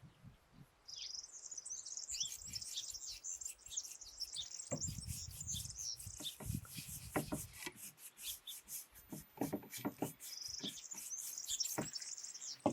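Small birds chirping and singing. From about five seconds in, irregular rubbing strokes on wood join them, from varnish being applied to wooden furniture.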